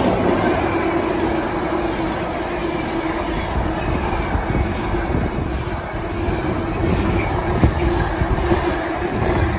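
Container freight train running through behind electric locomotives: a continuous rumble of wagon wheels on the rails with a steady hum, and a few sharp clicks as wheels pass over rail joints near the end.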